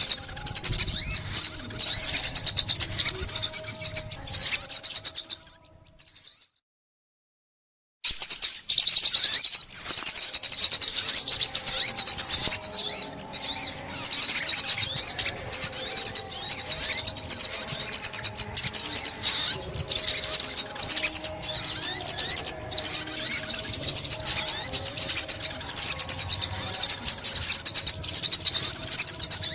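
Sunbird (ốc mít) song: a rapid, continuous, high-pitched twittering of chirps and trills, cutting out completely for about two seconds near the quarter mark and then carrying on.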